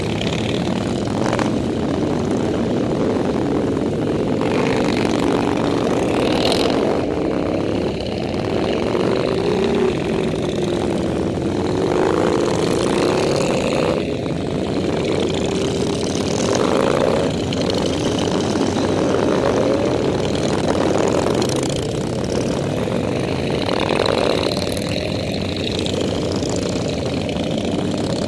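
Motorcycle engines running steadily, their pitch wavering up and down as they ride.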